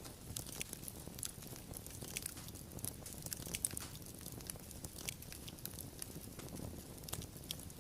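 Wood fire crackling, with irregular snaps and pops several times a second over a low, steady rumble of burning.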